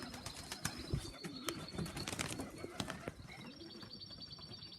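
Loft pigeons cooing in low, repeated rising-and-falling phrases, with scattered small clicks and a thin, high, pulsing bird trill above.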